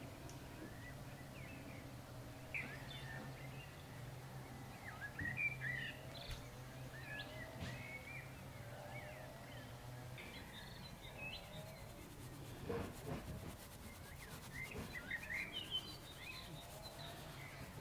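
Small birds chirping and twittering in scattered bouts outdoors, over a faint steady low hum that stops about ten seconds in.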